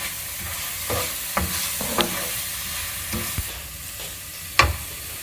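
Onion-tomato masala with spice powders sizzling in oil in a pan as it is stirred, with a steady hiss and about five scrapes and knocks of the stirring utensil against the pan, the loudest near the end.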